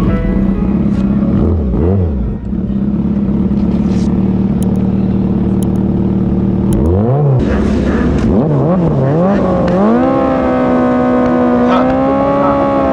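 Kawasaki Ninja ZX-6R 636 inline-four engine held at steady high revs, with a few quick throttle dips where the pitch drops and climbs back, then a rise to a higher steady note near the end.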